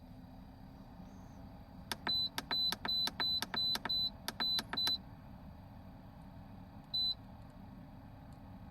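Electronic control panel of a portable car fridge beeping with each button press: about nine quick high beeps, each with a click, over some three seconds, then one more beep a couple of seconds later.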